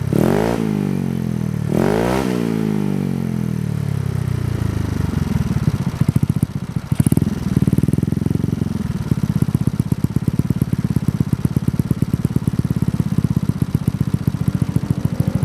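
Yamaha Mio scooter's single-cylinder four-stroke engine through a Kenochi Racing K1 aftermarket exhaust. It is revved twice near the start, the revs rising sharply and falling away each time, then settles into a fast, evenly pulsing idle.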